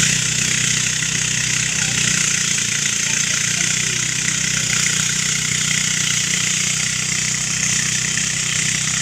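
Engine-driven rice threshing machine running steadily, a constant low engine note under a broad hiss.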